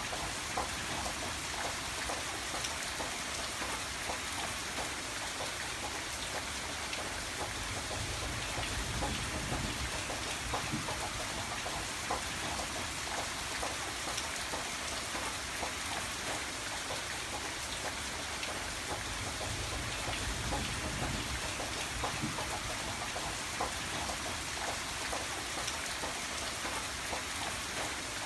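Steady rain falling on surfaces, with many small drop ticks over an even hiss and a soft low rumble that swells a couple of times.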